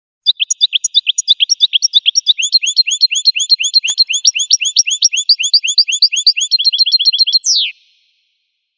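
Goldfinch singing one long song phrase: a fast run of repeated chirping notes, about seven a second, that quickens near the end and closes with one downward-sweeping note.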